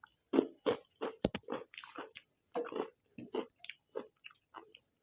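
Close eating sounds: chewing and mouth smacking on egg curry and rice, an irregular run of short clicks, about three a second.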